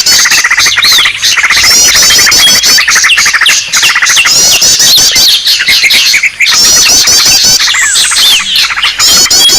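Dense chorus of many small songbirds chirping and twittering over one another, with quick trilled phrases recurring throughout: a bird-catcher's lure call recording made to draw in small birds.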